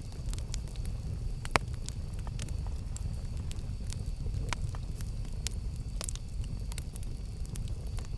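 Campfire burning: wood crackling and popping in irregular sharp snaps, with one louder pop about one and a half seconds in, over a steady low rumble.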